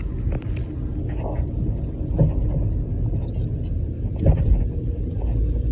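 A motor vehicle running with a steady low rumble, with a couple of sharp knocks about two seconds in and again a little past four seconds.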